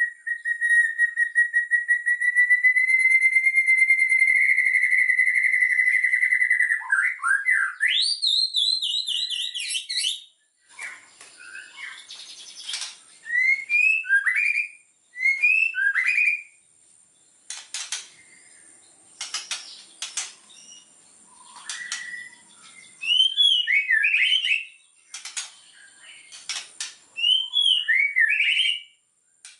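White-rumped shama singing: a rapid trill held for about seven seconds, then a rising sweep, then a run of sharp clicks mixed with short upslurred whistled phrases.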